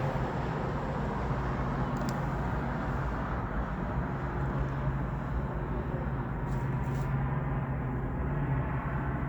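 Steady low rumble with a constant low hum, the background of a city riverfront at night, with a few faint ticks.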